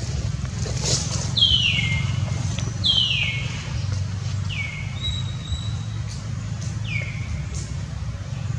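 A bird calling with a clear falling whistle, repeated about four times a second or more apart, over a steady low rumble.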